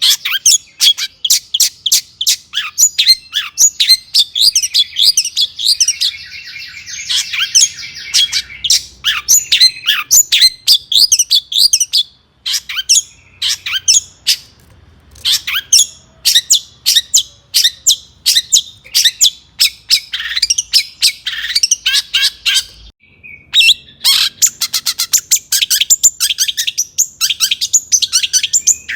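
Long-tailed shrike (cendet) singing in a fast run of sharp, harsh chattering notes, with a buzzy rattling phrase about seven seconds in and short pauses about twelve and twenty-three seconds in.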